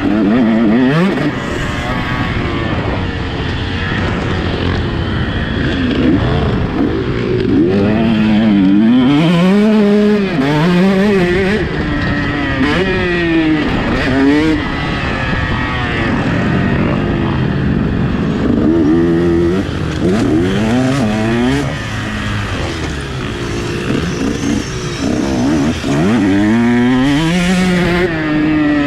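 Motocross bike engine revving up and falling back again and again, its pitch climbing and dropping every second or two as the throttle opens and closes through the gears.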